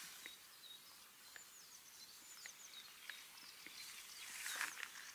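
Small birds chirping faintly, quick high notes repeated over and over, with a few light clicks and a short burst of noise near the end.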